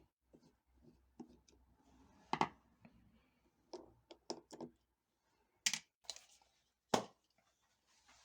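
Irregular clicks, taps and knocks of small hard parts and tools being handled, with a few brief scrapes. Three louder knocks come about a third of the way in, past halfway and near the end.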